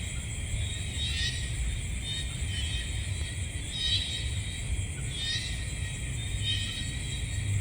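Night ambience: a steady high-pitched chorus of night insects, with a short repeated call about every second and a half, over a low rumble.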